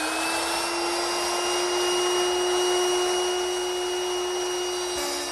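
Electric wood router fitted with a 22-degree beveling bit, running at full speed with a steady high whine. Near the end the pitch begins to drop as it winds down.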